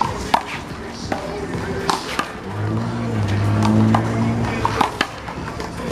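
One-wall handball rally: a big blue rubber handball slapped by hands and smacking off the wall, in irregular sharp hits. A steady low tone runs for about two seconds in the middle.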